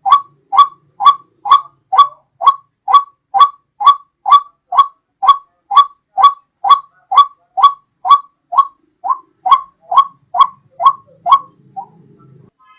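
White-breasted waterhen (ruak-ruak) calling: a loud, steady run of short, downward-gliding notes, about two a second. The run stops shortly before the end.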